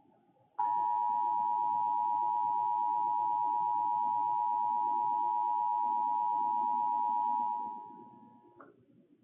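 Emergency Alert System two-tone attention signal: a steady, unwavering dual tone that starts about half a second in, holds for about seven seconds, then fades and cuts off. It signals that an emergency alert message is about to be read.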